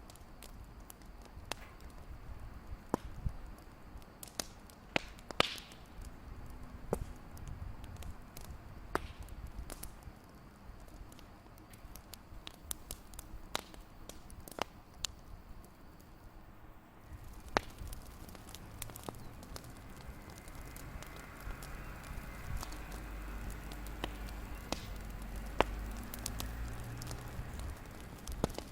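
Wood fire crackling in a fireplace: irregular sharp pops and snaps over a low steady rumble of the burning.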